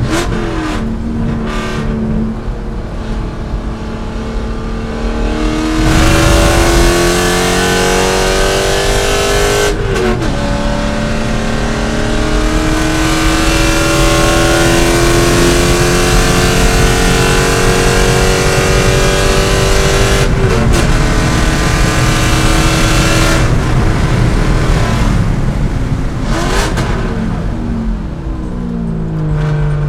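C5 Corvette's V8 racing flat out: it pulls hard through the gears with two upshifts, the pitch dropping and climbing again each time, then comes off the throttle near the end and blips through downshifts under braking. A few downward sweeps of revs at the start are more downshifts.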